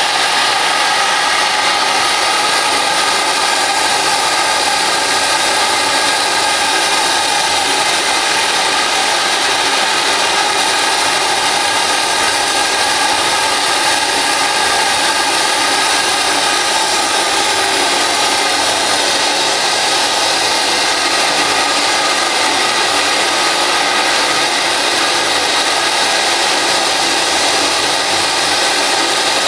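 Compressed-air-operated vacuum cleaner running steadily, its air-driven vacuum pump in the head giving a continuous rushing hiss with several steady tones as the floor brush sucks up spilled flux powder.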